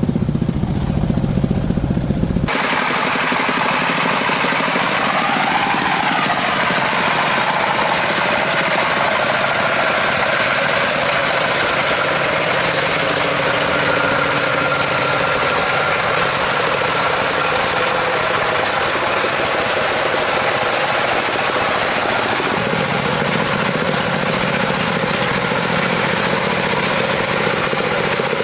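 Farm truck's engine running with a steady knocking chug. Its sound changes abruptly about two seconds in, losing its deep part, which partly comes back near the end.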